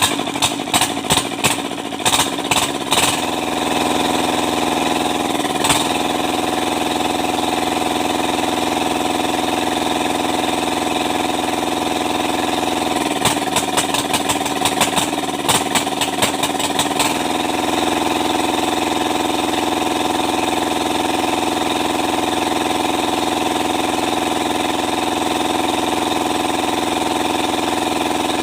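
Kubota Z751 two-cylinder diesel engine running steadily, with spells of rapid clattering knocks near the start and again about halfway through.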